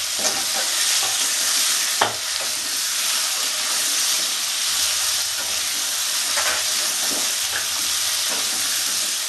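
Potato and cauliflower pieces sizzling as they fry in oil in a non-stick karahi, stirred by a metal spatula scraping through them, with a sharp tap of the spatula about two seconds in.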